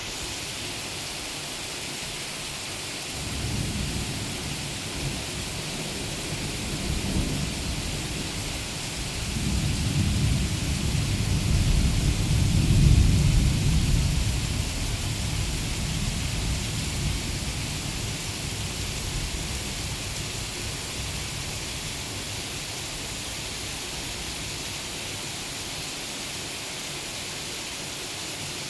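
Steady rain falling, with a long roll of thunder that comes in a few seconds in, swells to its loudest around the middle and slowly dies away.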